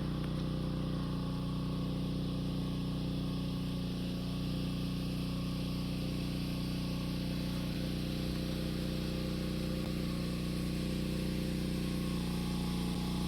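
A vehicle's engine running at a steady pitch, heard from inside the cabin, with a continuous even hum.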